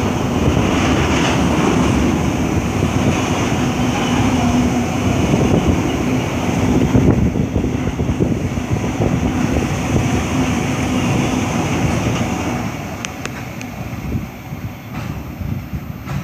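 Container freight train's wagons rolling past on the rails, a steady rush of wheel and rail noise with a low tone under it, fading away over the last few seconds as the end of the train goes by.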